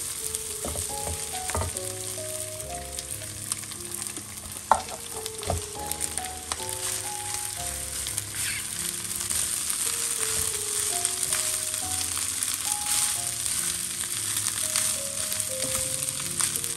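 Sliced sausage and aromatics sizzling in oil in a granite-coated wok, then rice stirred through them, with a silicone spatula scraping and tapping against the pan; the sharpest knock comes about five seconds in.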